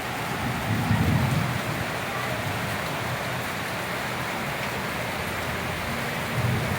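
Steady rain falling, with a brief low rumble about a second in and another near the end.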